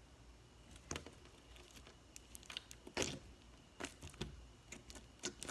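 Homemade slime being squished and stretched by hand, giving irregular wet pops and crackles.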